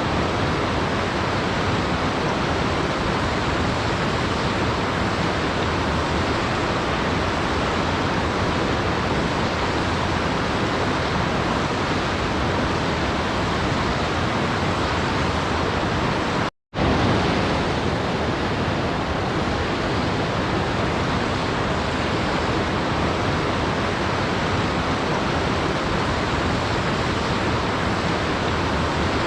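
Waterfall water rushing in a steady, even roar of noise, broken once a little past halfway by a split-second dropout to silence before it carries on unchanged.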